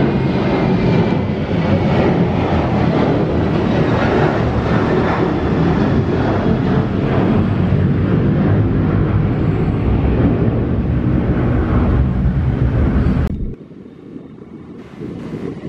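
Jet airliner's engines running at high power as it goes around from an abandoned landing: a loud, steady roar. About 13 seconds in it drops off suddenly, leaving quieter wind noise on the microphone.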